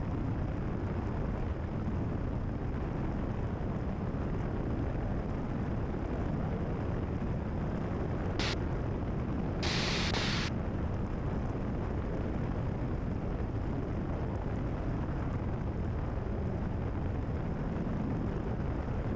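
Cessna 172RG's Lycoming O-360 engine and propeller droning steadily in the cabin at reduced descent power, throttled back to about 20 inches. A short hiss cuts in twice, a brief one about eight and a half seconds in and a longer one about ten seconds in.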